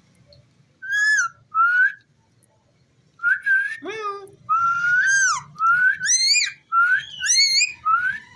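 Indian ringneck parrot whistling a run of short, rising whistles, with one sharp downward-swooping call about four seconds in.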